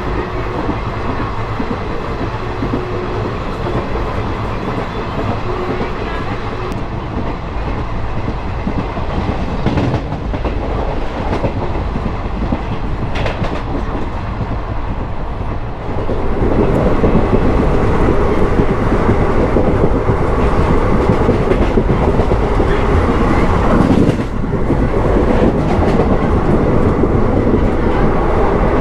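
A moving passenger express train heard from a coach's open doorway: steady running rumble and clatter of the wheels on the track, with occasional sharp clicks. It grows noticeably louder a little past halfway through.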